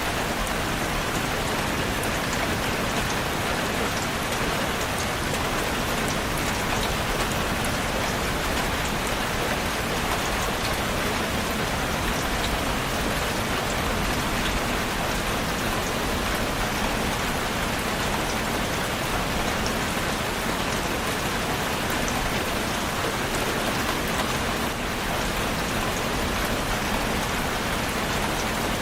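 Steady rain falling, an even hiss dotted with the sharp ticks of individual drops landing on a surface.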